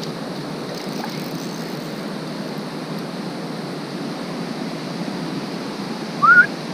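Creek water rushing steadily over a shallow riffle. Near the end, a brief loud rising squeak.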